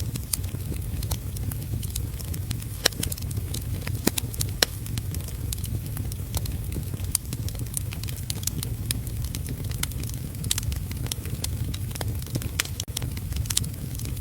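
Fireplace wood fire crackling: a steady stream of sharp snaps and pops, a couple of them louder about three and four and a half seconds in, over a steady low rumble.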